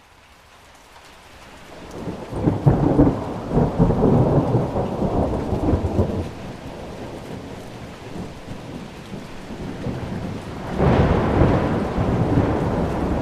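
Thunder rumbling over steady rain: the sound swells up from near silence, a long rumble of thunder comes about two seconds in, and a second one starts near the end.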